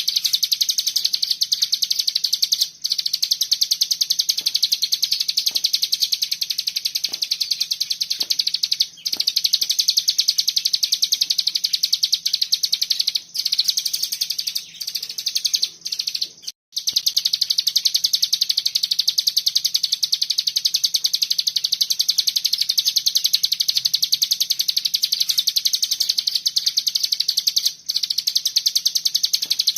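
A cigun bird singing its 'bren' song: a dense, high, very rapid buzzing trill that runs on almost without a break, stopping only for a few split-second pauses.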